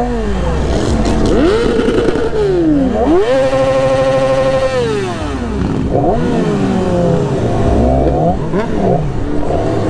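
Several superbike engines revving together in overlapping blips that rise and fall in pitch. About three seconds in, one rev climbs and is held high for a second and a half before dropping back.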